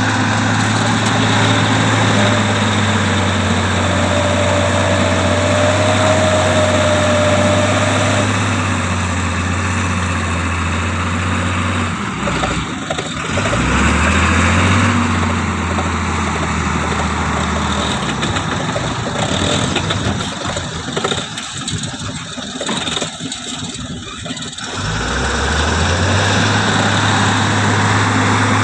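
Mitsubishi Canter dump truck's diesel engine running steadily. It twice cuts away and then picks back up with a rising pitch, once about halfway through and again near the end, with a shorter gap between. A thin whine rises over the engine for a few seconds early on.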